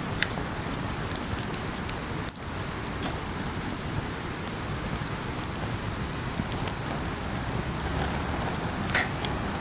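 Campfire crackling: a steady hiss of burning wood with scattered sharp pops, one louder pop near the end.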